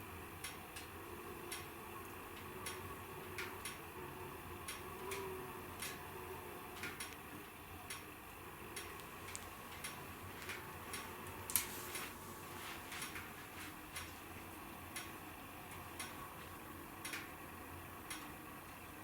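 Wood fire in a fireplace crackling, with irregular small pops and clicks and one sharper pop about halfway through.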